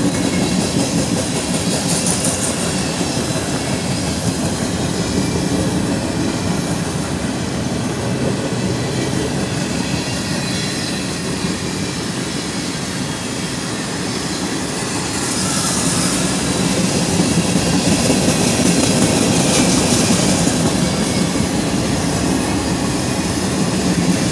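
CSX freight train of tank cars rolling past: a steady rumble of steel wheels on rail with clacking over the joints and a few spells of high wheel screech. It grows louder past the middle as the train starts to pick up speed.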